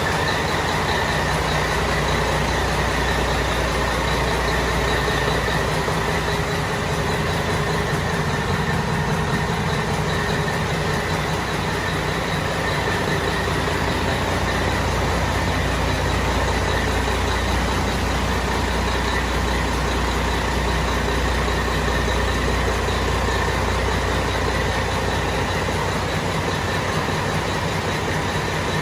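Caterpillar C-12 inline-six diesel engine running steadily on a dynamometer test stand.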